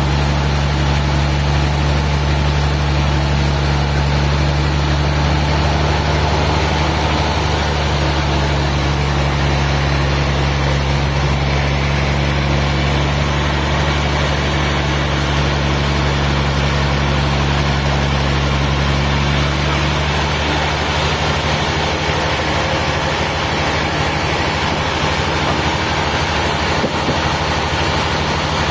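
Sawmill machinery running steadily with a low engine hum, the hum changing slightly about twenty seconds in.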